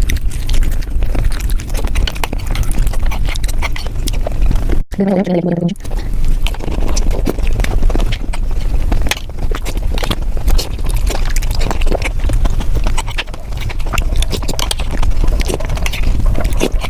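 Close-up eating sounds of dahi puri sped up five times: crunching puris and wet chewing and smacking run together into a fast, dense stream of clicks. About five seconds in the sound cuts out briefly and a short pitched sound follows.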